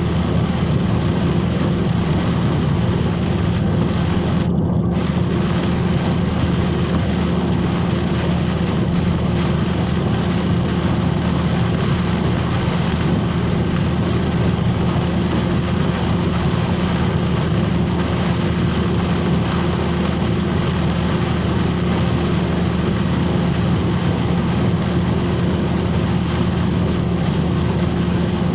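Box truck driving in heavy rain, heard from inside the cab: a steady engine and road drone under a constant hiss of rain and wet tyres. The hiss briefly drops out about five seconds in.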